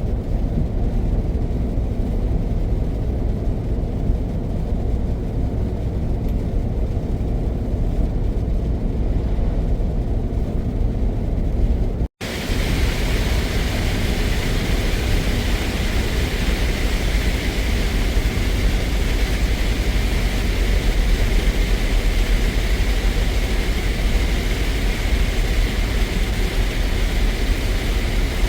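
Scania truck driving along: a steady low engine and road drone. It breaks off abruptly about 12 seconds in, and when it resumes the tyre and wind hiss is much louder.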